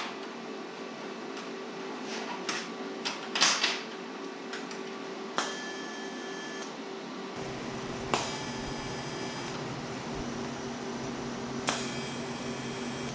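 Steel sheet-metal shop work: a steady machine hum with scattered knocks on metal, three of which ring on for about a second like a struck steel panel; a lower rumble joins in about halfway.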